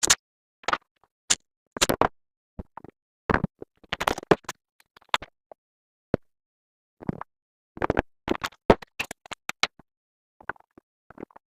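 Irregular clicks, taps and short scrapes of plastic quart oil bottles and their caps being handled while engine oil is poured in, with no engine running.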